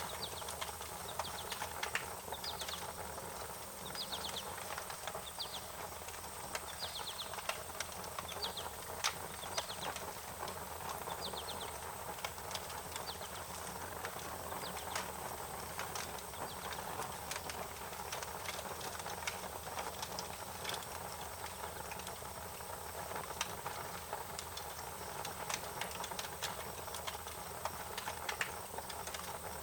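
Wood fire crackling, with scattered sharp pops over a steady hiss. A bird chirps repeatedly, about once a second, through the first ten seconds or so.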